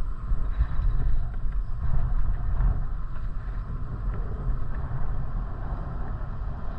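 Uneven wind rumble on the microphone mixed with the road noise of a moving bicycle, with a few faint ticks.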